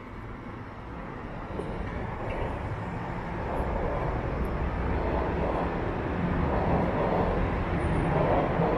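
Subway train on Toronto's Line 1 rumbling beneath the street, a low rumble that grows steadily louder as the train approaches.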